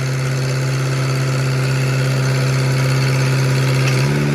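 An engine running steadily at a constant pitch, its tone stepping up briefly near the end.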